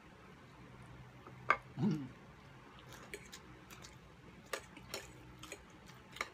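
Eating sounds from people chewing siomai: scattered wet mouth clicks and smacks, with a louder click about one and a half seconds in and a brief hum from a voice just after it.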